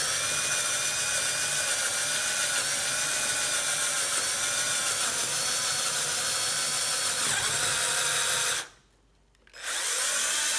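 Electric drill running with a 5 mm bit, boring a hole through a vintage quick-release skewer, a steady whine whose pitch wavers slightly under load. It stops about eight and a half seconds in and starts again about a second later.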